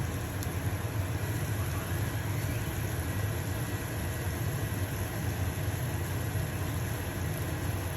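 Stovetop range hood fan running with a steady low hum, over the even hiss of a pancake sizzling in a frying pan.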